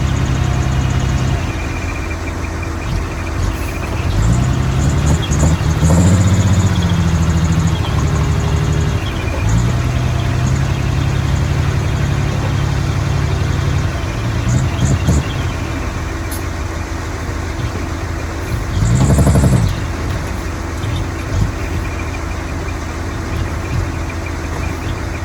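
Heavy diesel earthmoving machinery running steadily, its engine revving up and back down a few times, notably about four to six seconds in and again near nineteen seconds.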